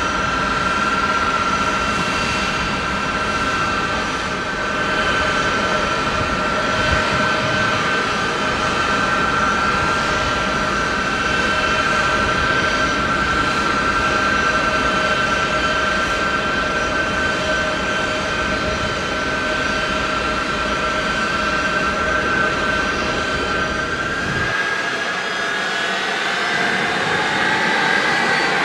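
Boeing C-17 Globemaster III's four Pratt & Whitney F117 turbofans running with a steady jet whine over a broad rush of noise. About 24 seconds in, the whine rises in pitch as the engines spool up.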